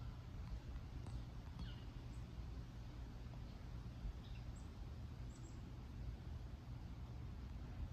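An unidentified bird calling in short, high chirps, several in the first few seconds, over a steady low rumble of background noise.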